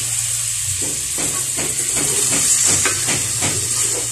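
Chicken sizzling as it sautés in hot oil in a cooking pot, a steady hiss, with a spatula stirring and scraping against the pot in quick strokes from about a second in.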